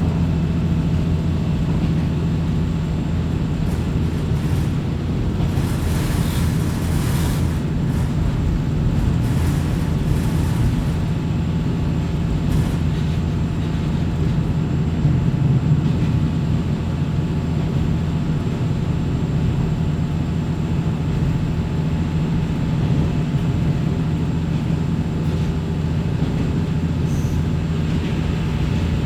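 Inside the cabin of a Kominato Railway diesel railcar under way: the diesel engine drones steadily under the wheel and track noise, with a brief rushing noise about six to seven seconds in.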